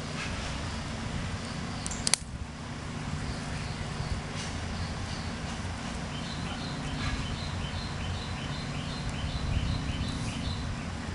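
A songbird calling outdoors: a quick run of short, high, evenly repeated chirps in the second half, over a steady low rumble of background noise. A single sharp click about two seconds in.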